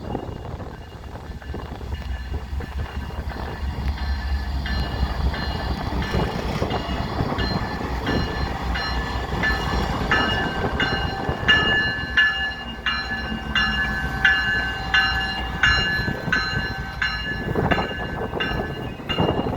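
Freight train cars rolling slowly past, wheels clicking over a rail joint in an even rhythm about every half-second, with a steady high-pitched wheel squeal over the clicks. A low rumble sits under the start.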